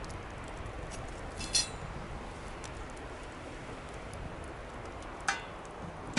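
Campfire burning with faint scattered crackles over a steady low rush, and two sharp clinks, about a second and a half in and again near the end; the first rings briefly.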